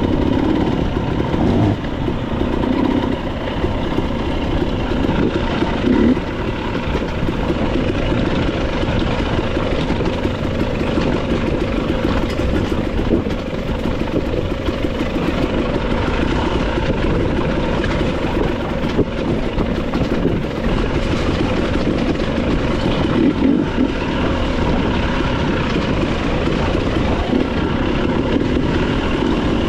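Motorcycle under way, its engine running at a steady pace with continuous road noise.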